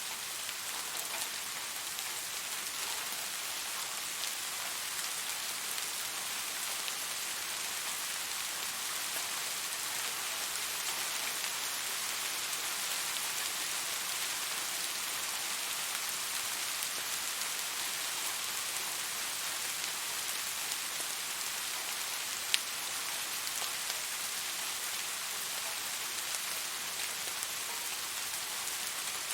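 Steady rain falling, an even hiss sprinkled with small drop ticks. One sharper drop tap stands out about three-quarters of the way through.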